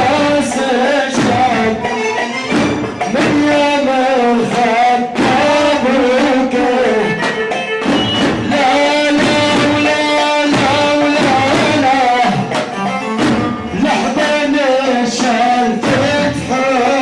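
Live Arabic party music: an ornamented melody line over a steady percussion beat.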